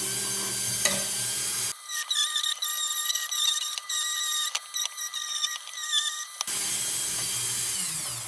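Small handheld rotary power tool running at high speed and working against the lantern's metal to remove paint and solder drips, with a whine that wavers under load. It begins to wind down at the very end.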